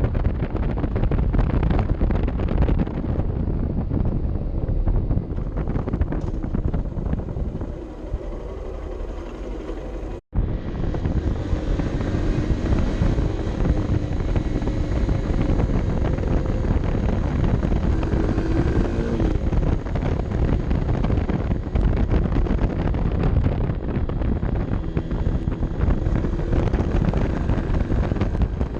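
Honda CB 125 F's air-cooled single-cylinder four-stroke engine running under way, mixed with wind buffeting the helmet-mounted camera microphone. It eases off briefly and the sound cuts out for an instant about ten seconds in, then the engine carries on steadily.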